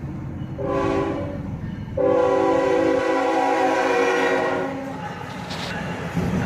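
Freight locomotive's multi-chime air horn sounding a short blast and then a long, louder blast, the closing part of the grade-crossing signal, over the low rumble of the passing train.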